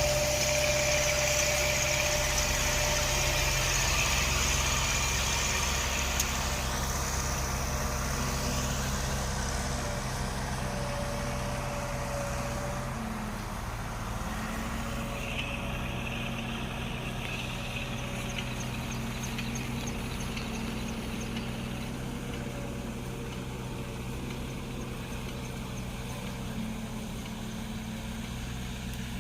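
Tractor engine running steadily. A high hiss over it fades about six seconds in, and the engine grows slowly quieter.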